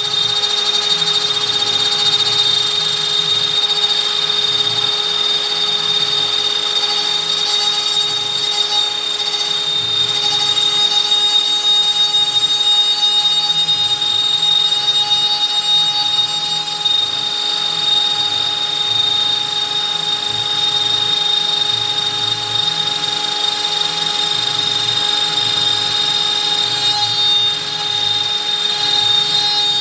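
Stepcraft M1000 CNC router spindle running at a steady 25,000 rpm with a high whine, as a 4 mm up-down compression bit mills through beech. Under the whine, a rough, uneven cutting noise rises and falls with the cut.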